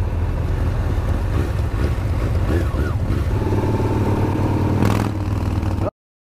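Two motorcycle engines running together, a Harley-Davidson V-twin chopper alongside a Kawasaki ZX-6R sport bike, as the bikes pull away from a stop. The sound cuts off suddenly near the end.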